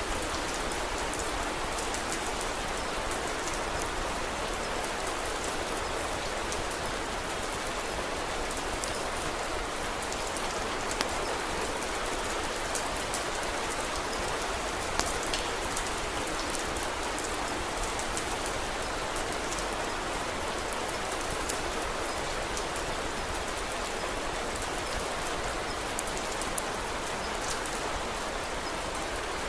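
Steady rain falling, mixed with scattered sharp crackles from a wood fire and a handful of louder pops.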